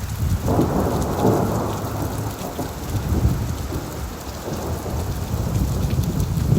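Steady rain falling on leaves, with a long roll of thunder that swells in about half a second in and rumbles on underneath the rain.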